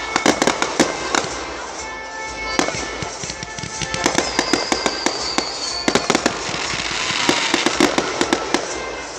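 Fireworks going off: dense rapid pops and crackling, with a high whistling tone lasting about two seconds, starting about four seconds in.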